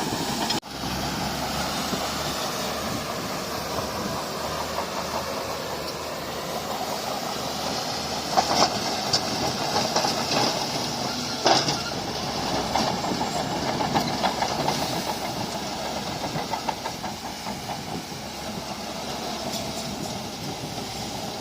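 Bulldozer running, with the steady clatter of its steel tracks and a few louder metallic clanks around the middle.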